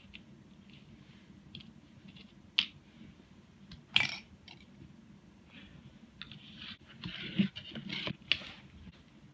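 Clicks and scraping of small parts being handled as an airsoft electric gun's mechbox is taken apart: a sharp click about four seconds in, then a couple of seconds of scraping and fiddling with two sharp clicks near the end.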